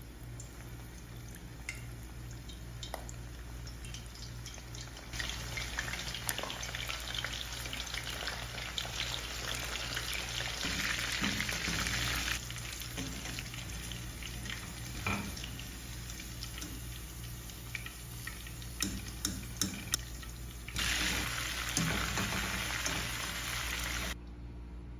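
Food sizzling in a hot frying pan, with scattered clicks of a utensil against the pan. The sizzle starts about five seconds in, jumps in loudness a few times and stops abruptly near the end.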